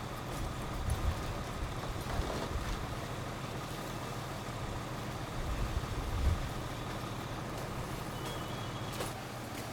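Fire apparatus engine running steadily, with a steady whine over it. Low gusts of wind buffet the microphone about a second in and again around six seconds in, and a short run of high beeps sounds near the end.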